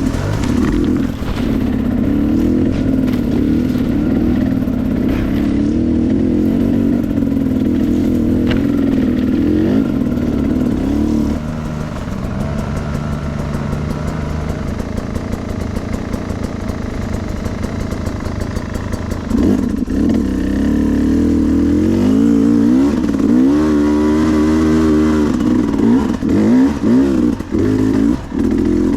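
Off-road enduro motorcycle engine being ridden hard, the revs rising and falling with the throttle. It settles lower through the middle, then comes back in with quick repeated blips of throttle near the end.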